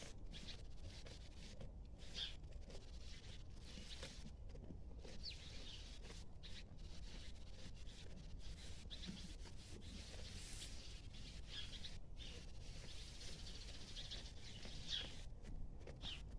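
Sheep and a horse chewing hay, a faint crunching, with small birds chirping briefly now and then.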